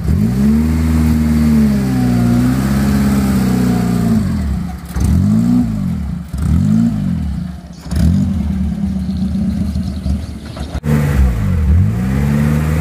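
Mitsubishi L300 pickup's petrol engine running after a push-start, revved up and falling back again and again, roughly every second or two.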